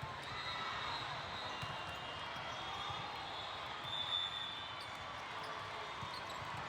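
Volleyball gym ambience: balls bouncing on the hard court floor, with background voices in a large hall.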